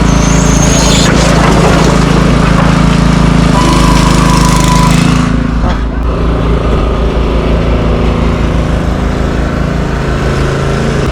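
Truck engine running steadily at close range, louder for about the first five seconds and then easing off somewhat.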